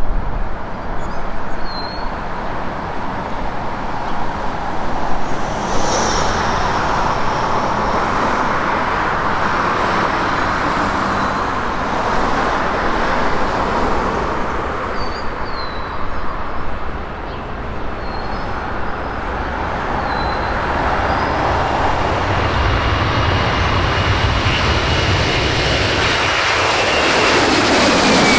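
Boeing 767-300ER jet engines running steadily, growing louder toward the end, with a high whine that comes in about two-thirds through and falls in pitch at the end.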